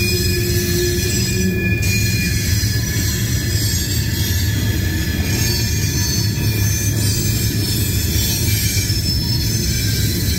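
Loaded gravel cars of a freight train rolling past, steel wheels rumbling steadily on the rails, with a thin high-pitched squeal from the wheels running over it.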